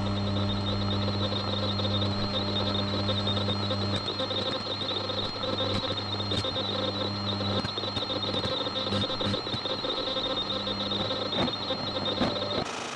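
Radio static over a steady low electrical hum, with a few faint scattered clicks: an open walkie-talkie channel with no one transmitting.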